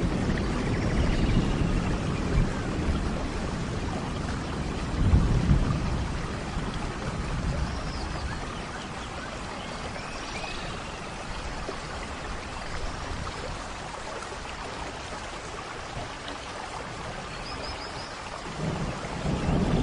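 Steady rain falling, with low rolling thunder that swells about five seconds in and again near the end.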